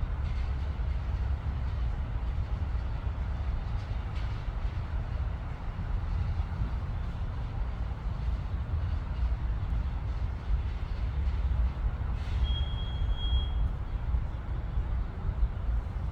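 Steady low rumble with no distinct events, and one brief high-pitched tone about twelve seconds in.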